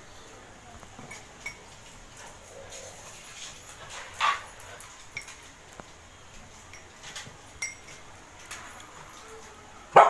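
Light clinks of a metal spoon against glass bowls and a ceramic mug during eating, with two short, louder animal calls, one about four seconds in and one at the very end.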